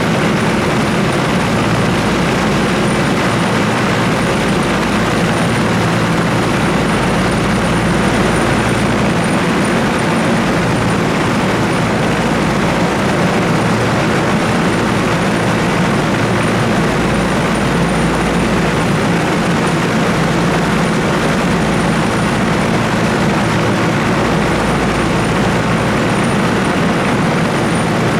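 Trieste–Opicina tram running with a steady, even rumble that holds level throughout.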